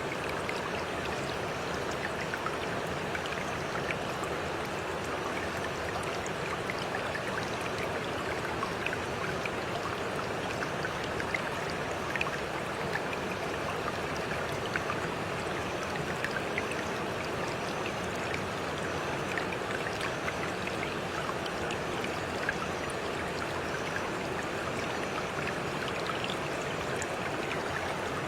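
Stream water running steadily, with small splashes and drips.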